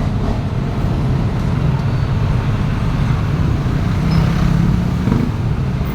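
Heavy truck's engine running with a steady low rumble amid road traffic, with a steadier hum coming up briefly about four seconds in.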